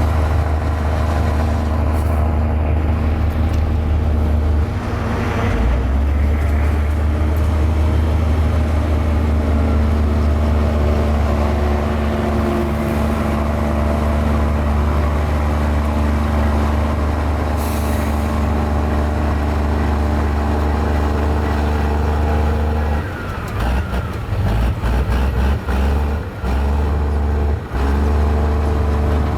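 Mini Komatsu bulldozer's diesel engine running steadily as it works. In the last few seconds the sound dips and flutters several times.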